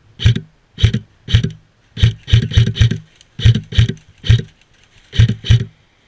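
Airsoft gun firing semi-automatic, about a dozen sharp shots at an uneven pace, some in quick doubles.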